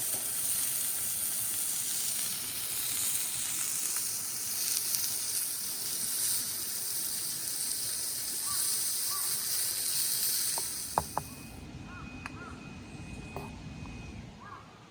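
A steady hissing noise that cuts off suddenly about eleven seconds in. After it, quieter outdoor sound remains, with a few sharp clicks and short bird chirps.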